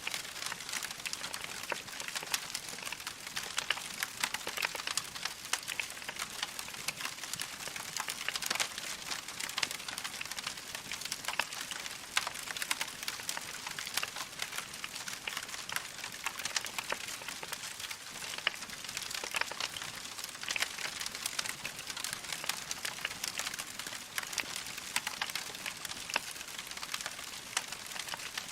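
Log fire crackling steadily: a dense run of small pops and snaps over a soft hiss, with no pause.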